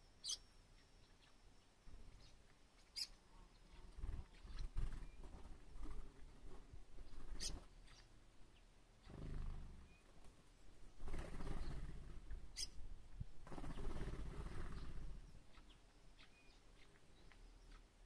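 A few short, sharp bird calls, single chips several seconds apart, from small birds drinking at a rock pool. Between them come stretches of low rumbling noise, louder than the calls.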